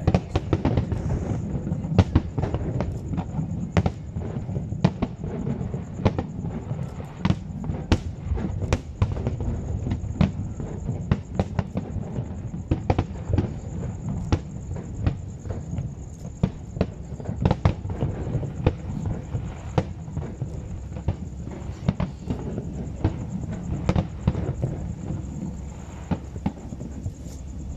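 Aerial firework shells bursting in rapid succession: many sharp bangs a second over a continuous low rumble.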